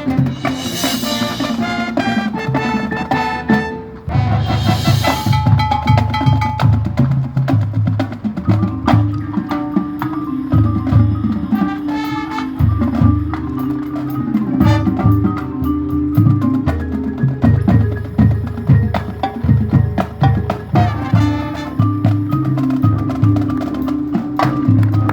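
A band playing: steady drum hits and mallet percussion under held notes, with cymbal crashes at the very start and again about four and a half seconds in.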